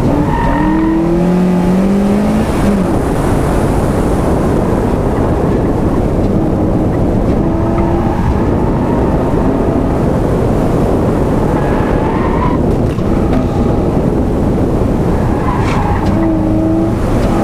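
Stock Mazda Miata's four-cylinder engine revving hard on an autocross course, its pitch climbing in the first couple of seconds and rising again several times later, under a constant loud rush of wind noise.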